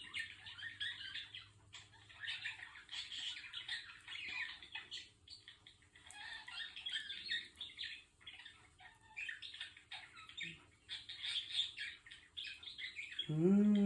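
Budgerigar chattering in quick, scratchy warbled phrases with short pauses. A person hums "mmm" at the very end.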